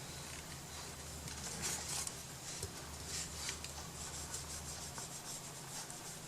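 Faint, irregular rubbing and scraping strokes of hand craft work on a wooden box, over a low steady hum.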